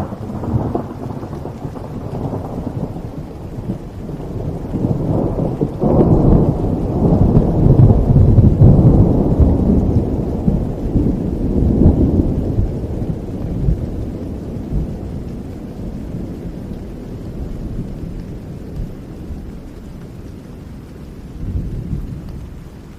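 A long roll of thunder over steady rain. It breaks in suddenly, swells to its loudest about six to twelve seconds in, then rumbles slowly away, with a smaller rumble near the end.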